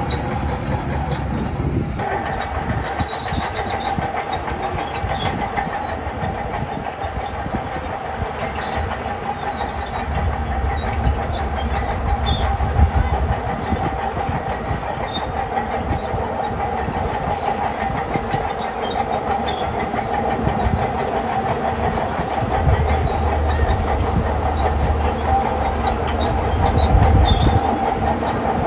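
Shantui crawler bulldozer at work: its diesel engine runs steadily under a constant clanking and squealing of the steel tracks, with the low engine rumble swelling twice under load.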